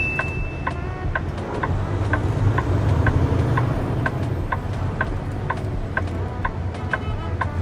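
A vehicle's steady road and engine rumble while driving, with a turn-signal indicator ticking evenly about two and a half times a second. The rumble swells for a couple of seconds near the middle.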